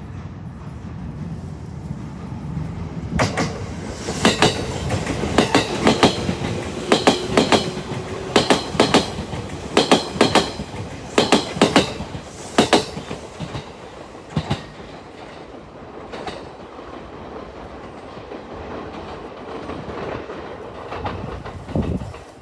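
An electric train running past on the rails. Its wheels strike rail joints in a quick run of sharp clacks, often in pairs, for several seconds, then settle into a steady rolling rumble.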